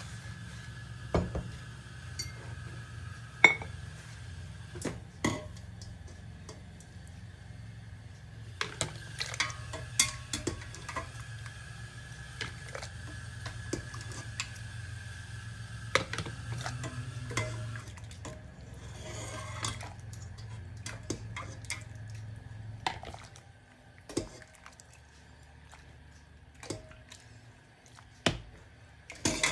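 Kitchen work: metal utensils and dishes clinking and knocking many separate times, over a steady low hum that stops about two-thirds of the way through.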